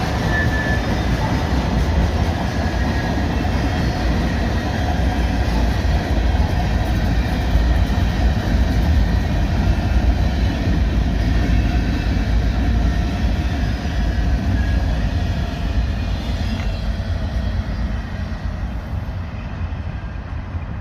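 CN freight train's cars rolling past in a steady rumble that fades over the last few seconds.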